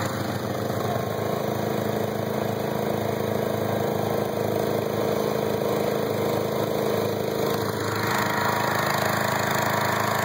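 Engines of an ATV and a lawn tractor running steadily, a little louder about eight seconds in.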